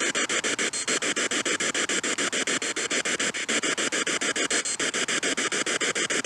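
Spirit box (ghost box) sweeping through radio frequencies: a steady hiss of static from its speaker, chopped by brief dropouts about ten times a second.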